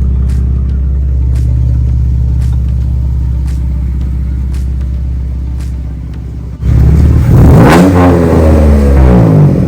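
Car engine running with a steady low rumble, then much louder for about three seconds near the end as it revs, the pitch rising and falling before it drops back.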